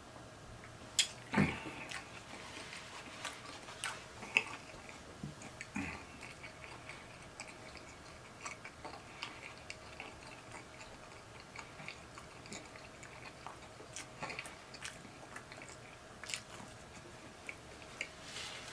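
A person chewing and swallowing a mouthful of sub sandwich, with irregular small mouth clicks and smacks and a louder knock about a second and a half in.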